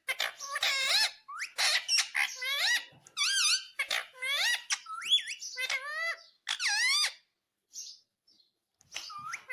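Indian ringneck parakeet vocalising in a quick run of short, high-pitched squeaky calls that bend up and down in pitch, then falling silent for about two seconds before calling again near the end.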